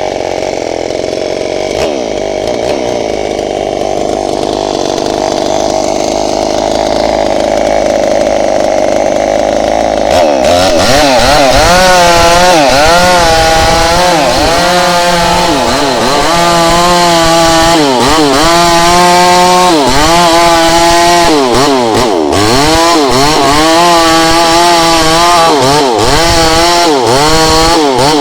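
Mini chainsaw engine running at a steady pitch for about ten seconds, then cutting into the wood: its pitch dips and recovers again and again as the chain bites and the saw rips timber into planks.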